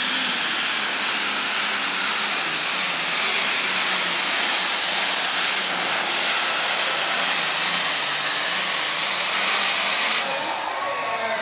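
Super stock pulling tractor's engine at full power on a pull, a loud roar with a high, steady whine over it. About ten seconds in the whine falls away and the engine eases off as the throttle comes back.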